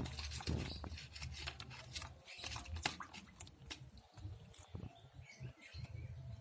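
Scattered light clicks and scrapes of a spoon stirring a mixture in a bowl.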